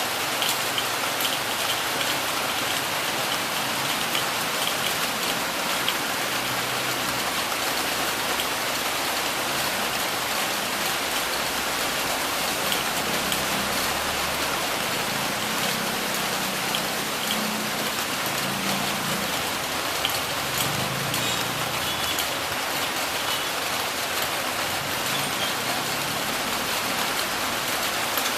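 Heavy rain falling steadily, with many individual drops ticking on a surface. A faint low hum comes and goes in the middle.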